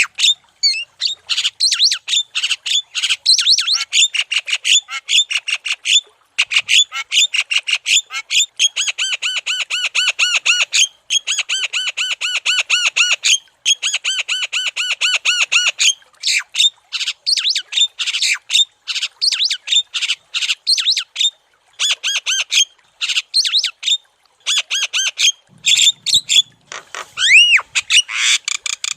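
Javan myna (jalak kebo) in full, non-stop song: fast trains of short harsh chirps and clicks, broken by brief pauses. In the middle is a run of evenly repeated notes, and near the end a clear whistle rises and falls.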